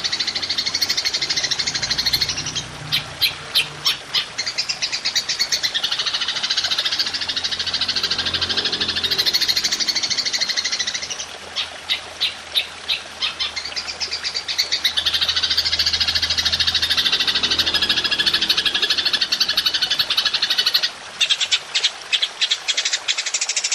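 Belalang emas (golden grasshopper) insect song: a continuous shrill, high buzzing trill, broken three times by runs of rapid pulses at about four a second, near the start, in the middle and near the end.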